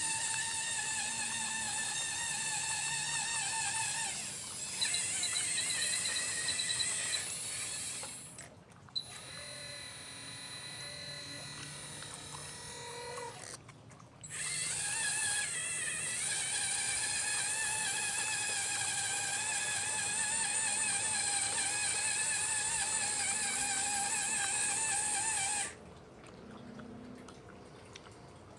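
Hydraulic pump motor of an RC Liebherr 954 model excavator whining at a steady, slightly wavering pitch. It drops away briefly twice and cuts off suddenly near the end.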